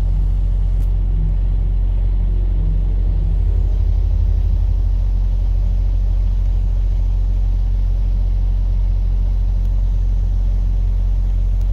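Heavy truck's diesel engine idling, a steady deep rumble that swells slightly about four seconds in.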